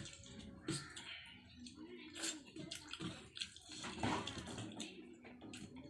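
Wet chewing, sucking and lip-smacking of a person eating rice, curry and chicken feet, with short sharp squelchy clicks at irregular intervals.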